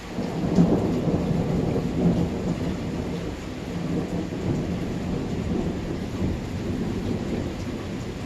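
Thunder breaking in suddenly and rolling on as a long low rumble over steady rain, loudest about half a second and again two seconds in.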